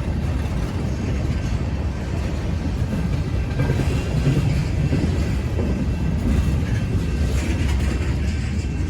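Freight cars rolling past, a steady rumble of steel wheels on the rails with a faint clickety-clack.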